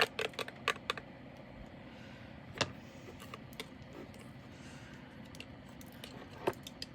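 Small plastic containers of diamond painting resin drills being handled and flipped: a quick run of sharp clicks and taps in the first second, then two more single clicks about a third and near the end of the way through.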